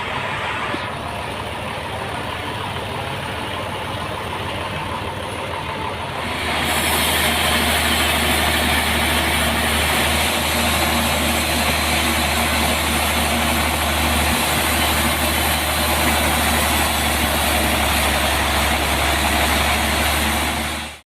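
A large engine running steadily, getting louder and fuller about six and a half seconds in, then cutting off suddenly near the end.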